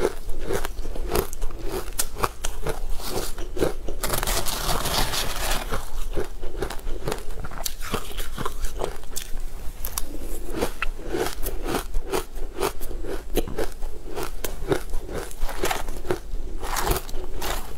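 Close-up crunchy chewing and biting: a person eating a crumbly green-coated food, a dense run of crisp crunches and crackles. Longer, noisier crunching swells about four seconds in and again near the end.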